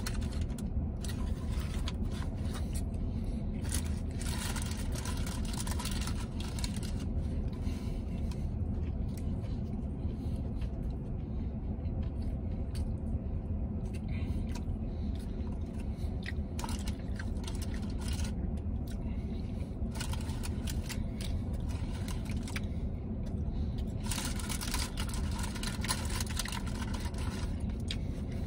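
A person chewing a vegan Caesar wrap close to the microphone, with scattered mouth clicks and rustles, over a steady low hum inside a truck cab.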